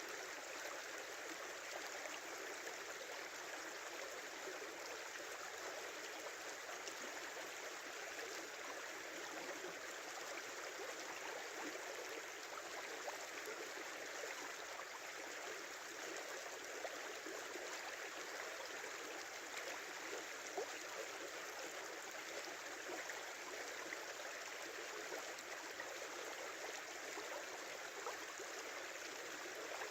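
A small river or brook running steadily over its bed: an even, continuous babbling of water.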